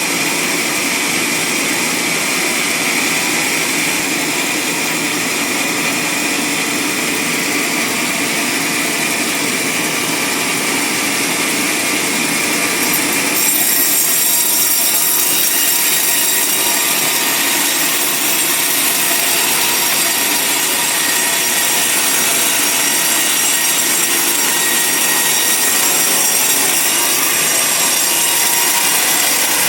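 Band sawmill blade cutting steadily through a large log, a continuous loud grinding hiss of the saw in the wood. About halfway through the sound grows brighter and a little louder.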